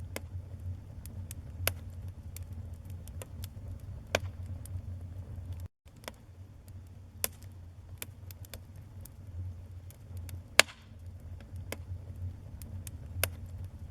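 Wood fire burning in a fireplace: constant small crackles over a low steady rumble, with louder sharp pops every few seconds, the loudest about two-thirds of the way in. The sound cuts out for a split second about 6 seconds in.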